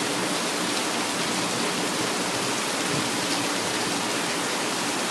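Heavy night rain falling steadily, a constant even hiss of rain on surfaces.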